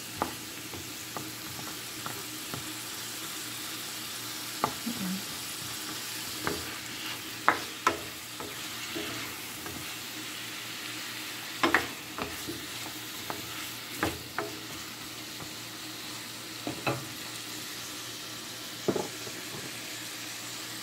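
Chayote, carrot and pork sizzling steadily in a stainless steel skillet as they are stir-fried, with about ten sharp clacks at uneven intervals from the spatula striking the pan.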